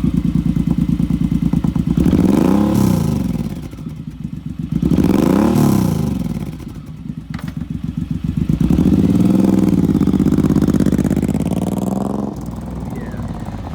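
2007 Suzuki Boulevard M109R's 1800 cc fuel-injected V-twin running through its exhaust, blipped twice about 3 and 5.5 seconds in, then revved and held longer before dropping back to idle near the end.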